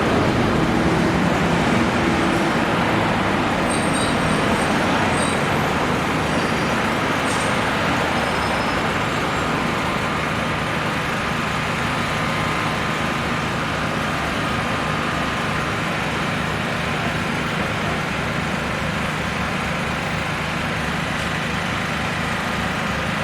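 Steady road traffic noise from passing cars and heavier vehicles, a little louder in the first few seconds.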